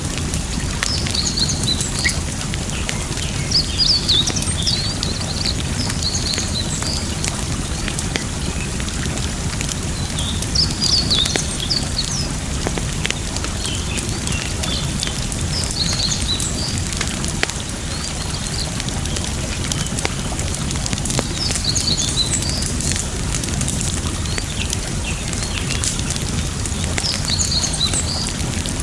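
Campfire crackling with scattered sharp pops over a steady rush of running water, while small birds chirp in short high phrases several times.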